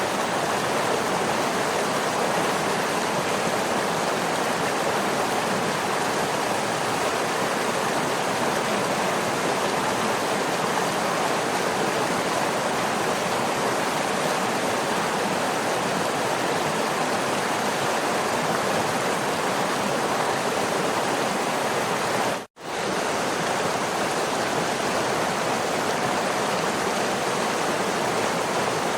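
Waterfall rushing in a steady, even roar of falling water, with a momentary drop to silence about three-quarters of the way through.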